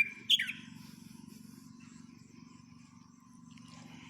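Birds chirping: two short, sharp calls right at the start, then fainter calls further off. Under them runs a steady low hum.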